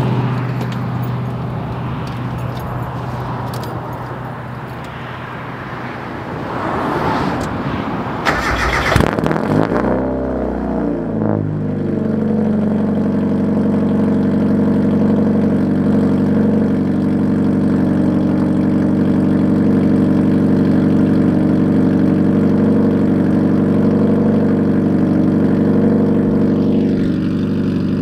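NA Mazda Miata's straight-piped four-cylinder engine turning over for several seconds, firing about ten seconds in with a brief rev, then settling into a steady idle.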